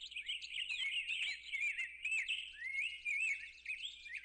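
Birdsong: a quick, continuous run of high chirps and twitters, each rising and falling in pitch, over a faint steady low hum.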